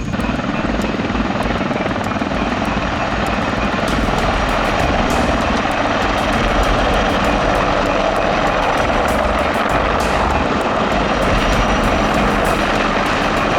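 Military helicopters flying past: a loud, steady rotor and turbine drone that grows a little louder about four seconds in.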